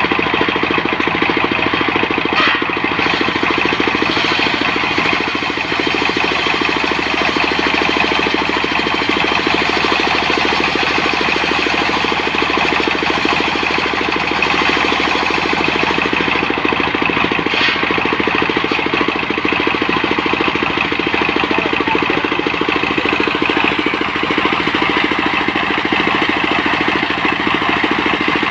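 Portable sawmill's engine running steadily, with two faint ticks partway through.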